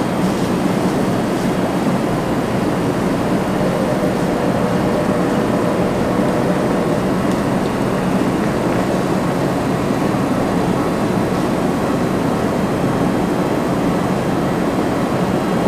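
Steady hum of stationary Tokyu electric trains standing at a station platform, their onboard equipment running, with no departure or arrival.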